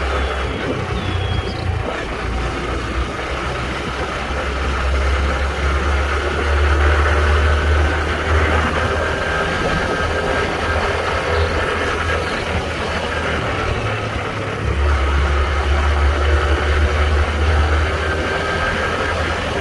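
Honda Trail 125's single-cylinder engine running while the motorcycle is ridden, under a steady rush of wind and road noise. The low engine rumble swells louder about six seconds in and again near fifteen seconds.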